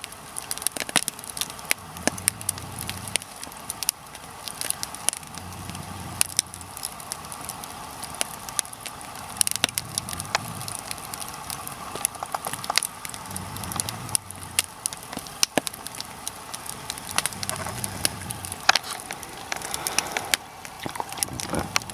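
Nodya log fire burning steadily with irregular crackling and sharp pops, resin pockets in the burning wood bursting.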